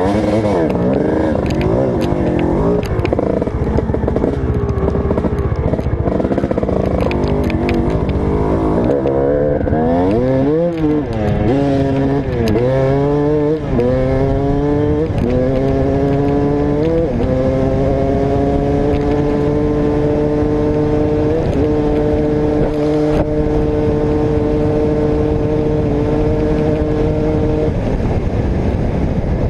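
Motocross motorcycle engine ridden hard, revving up and dropping back in pitch with a run of quick gear shifts. Then it holds a high, slowly climbing engine note for about ten seconds before easing off near the end.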